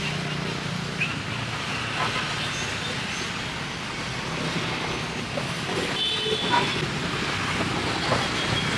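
Steady street din with traffic-like background noise, broken by a few light knocks and clinks.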